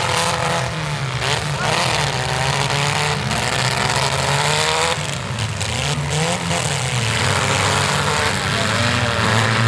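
Several compact demolition-derby cars' engines revving hard over one another as they ram and push, with a few sharp knocks of metal striking metal.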